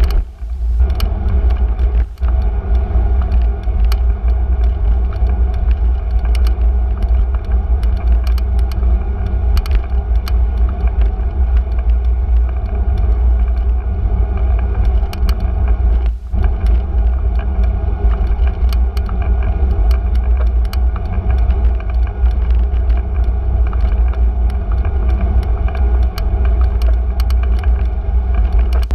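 Riding noise from a moving bicycle: a loud, steady low rumble of wind and road vibration, with frequent small clicks and rattles throughout.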